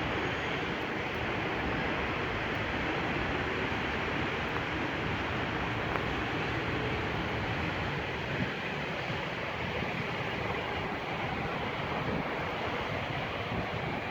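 Strong wind rushing and buffeting the microphone: a steady, even noise with a restless low rumble.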